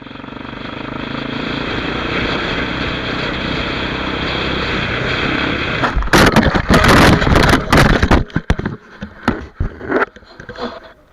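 A motorcycle riding at speed, its engine and wind noise steady and building, then about six seconds in a loud crash lasting about two seconds, followed by scattered knocks and scrapes.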